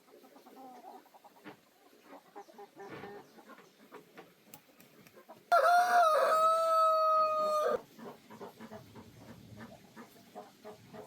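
A rooster crowing once for about two seconds, rising at the start and then holding a long steady note, with faint scattered clicks and rustles around it.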